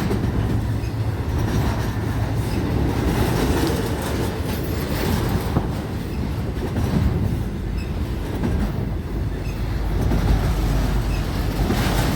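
Freight train cars rolling past on the mainline, with a steady low rumble of wheels on rail and clicking as the wheels cross rail joints.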